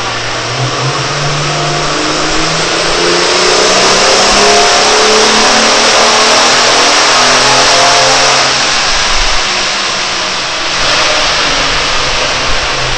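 Car engine doing a full-throttle power run on a chassis dynamometer: the revs climb steadily for about seven seconds, then the throttle shuts and the engine drops back toward idle.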